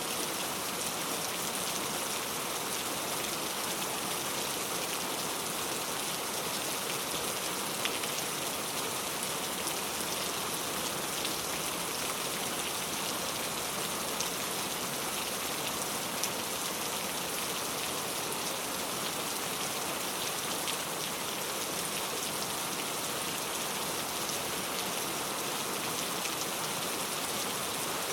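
Very heavy rain falling steadily, a dense hiss of drops with scattered sharper drop ticks.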